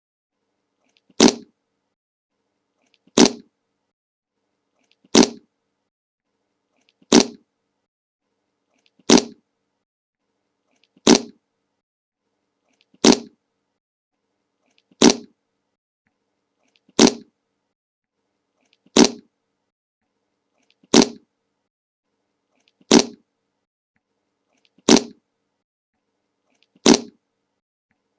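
The 'Le Monke' meme fart sound effect, a short fart played over and over, about once every two seconds, with dead silence between each one.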